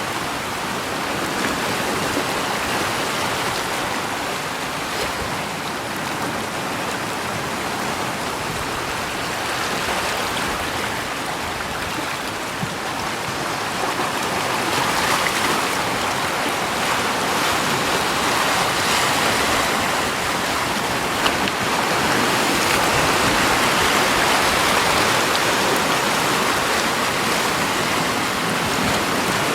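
Steady rushing water, an even hiss that grows a little louder in the second half.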